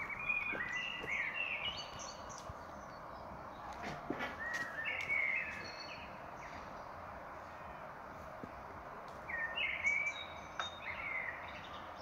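A songbird singing three short phrases of quick, stepped whistled notes, spread across a few seconds, over a steady hiss of forest background noise.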